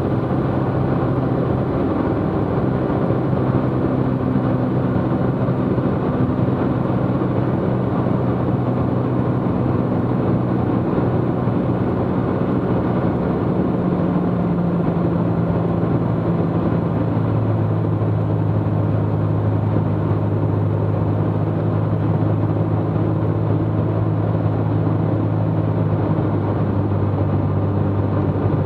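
Cessna T210's turbocharged six-cylinder engine and propeller droning steadily, heard in the cabin. The note steps down in pitch about halfway through as power comes back on base leg for landing.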